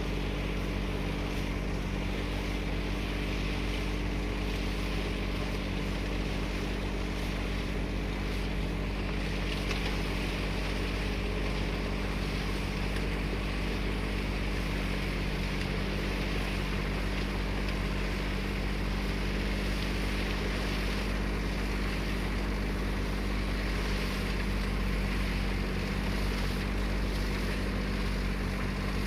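Tractor diesel engine running steadily at an even speed, a low throbbing drone with a noisy haze over it.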